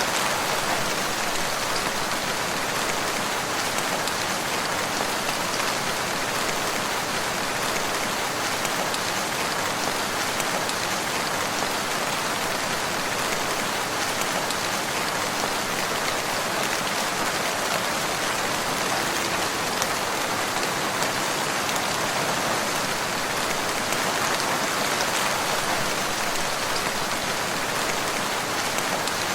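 Steady rainfall: a constant patter of rain falling on a surface, even in level throughout, with no thunder.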